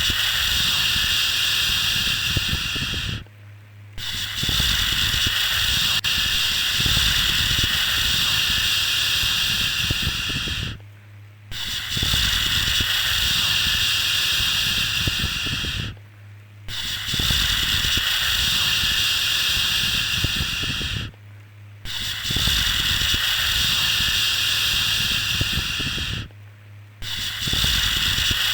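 A 'shhh' shushing sound for lulling a baby, held for about five seconds at a time and broken by short pauses, five times over, above a steady low hum.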